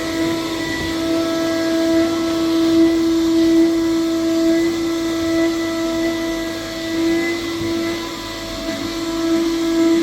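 Electric vacuum cleaner running with a steady motor whine over a rush of air, its loudness wavering slightly.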